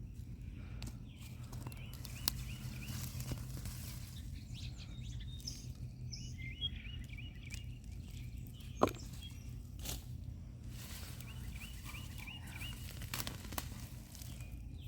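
A songbird calling in three runs of quick repeated chirps, over a steady low rumble of outdoor background noise. A few scattered rustles and knocks come through, the loudest about nine seconds in.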